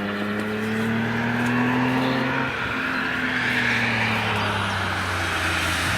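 A car accelerating past on a wet track: its engine climbs in pitch, shifts up about two and a half seconds in, then drops in pitch as it goes by, with a swelling hiss of tyres on the wet road.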